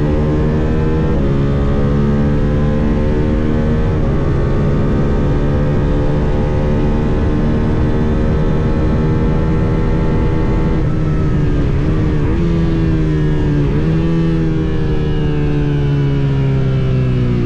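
Suzuki SV650 V-twin race engine at high revs, heard onboard over wind rush. It shifts up twice in the first four seconds and pulls steadily down a straight. From about eleven seconds in it drops through quick downshifts with short revs while braking for a corner, then picks up again as it drives out.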